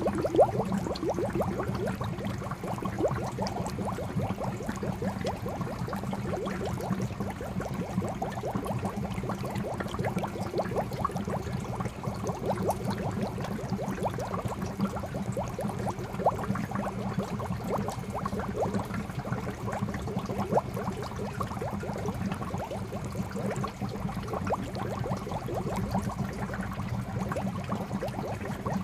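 Koi pond fountain water falling into the pond, a continuous stream of small bubbling plops and gurgles over a steady low hum.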